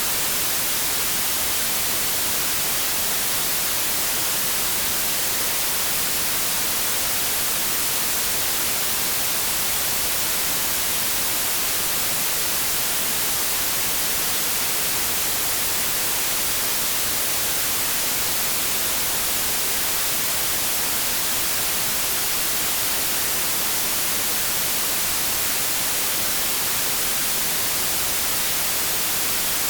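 Continuous synthetic white noise: a steady, unchanging hiss, brightest in the treble.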